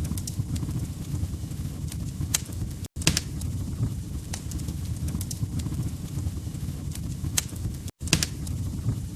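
Log fire crackling: scattered sharp pops and snaps over a steady low rumble of burning wood. The sound cuts out completely for an instant twice, about three and about eight seconds in.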